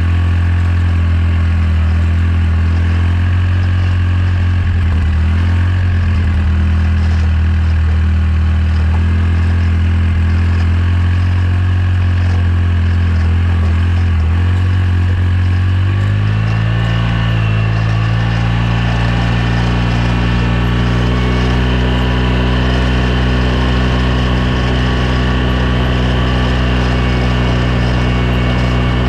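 2009 Polaris RZR 800 S running steadily at the left rear, its engine note changing about halfway through. Somewhere in the sound is a rattle from the rear end that the owner cannot yet place; he suspects the differential, the pinion nut or a CV joint/axle.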